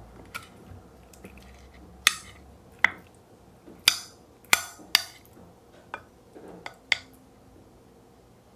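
Metal spoon cutting into a soft gelatin jelly and clinking sharply against the plate beneath, about eight clinks over five seconds.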